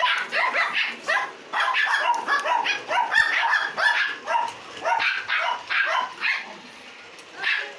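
Dog barking over and over in quick, sharp barks, easing off near the end.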